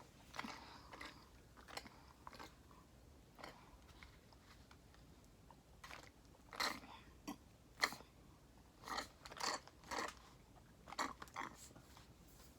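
A person chewing and biting chicken nuggets with cheese dip close to the microphone: faint, scattered mouth clicks and soft crunches, coming in clusters in the second half.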